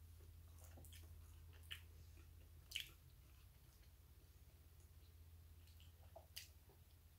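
Faint wet chewing of a double cheeseburger, with a few short soft mouth clicks, the sharpest about three seconds in, over a low steady hum.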